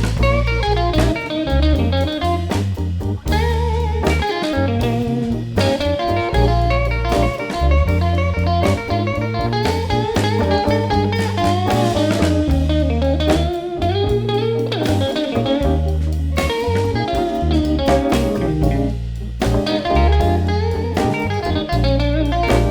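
Slow blues played by a band: a lead electric guitar solo with bent notes over electric bass and drums.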